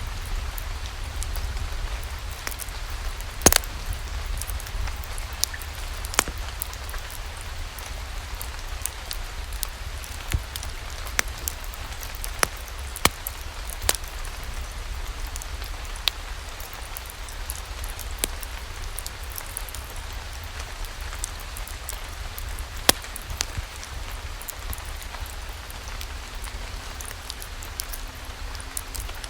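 Steady rain with a low rumble, overlaid by irregular sharp pops and crackles of a wood fire burning in a fireplace, a few of them loud.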